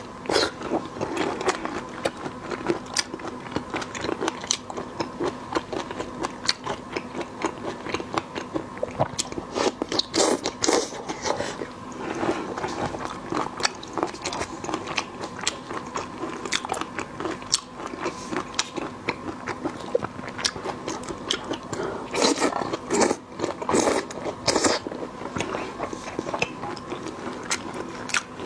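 Close-miked chewing and biting, with many sharp crunches throughout, of someone eating with their mouth close to the microphone. A faint steady hum runs underneath.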